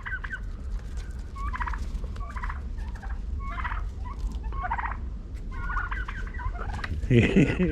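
Domestic turkeys calling: a string of short, high-pitched calls every second or so, with a louder, deeper call near the end.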